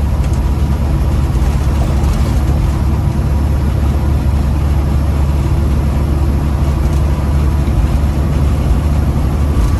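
Big rig truck's diesel engine running with a steady low drone, heard from inside the cab.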